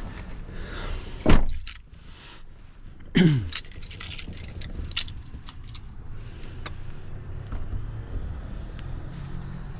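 BMW M3 F80's 3.0-litre twin-turbo inline-six idling, blipped twice, at about one second and three seconds in, each rev falling quickly back to idle. A scatter of sharp clicks follows over the next few seconds.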